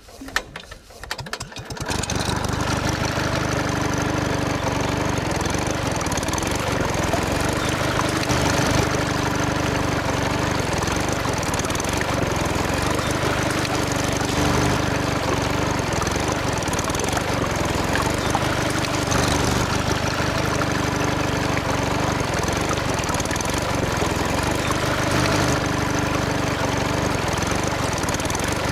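A motor starts running about two seconds in, after a few clicks, and keeps running steadily, with a droning tone that wavers every few seconds.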